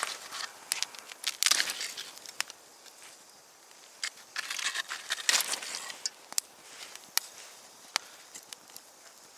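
Campfire of damp firewood crackling, with sharp single pops every second or so, and short bursts of rustling and crunching in between.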